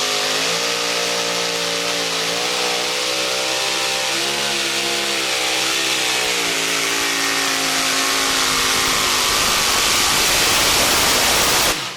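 Modified two-wheel-drive pulling truck's racing engine at full throttle, dragging the weight-transfer sled down the track. Its pitch wavers up and down as the engine bogs and recovers under the sled's load, and the sound grows slightly louder before cutting off suddenly near the end.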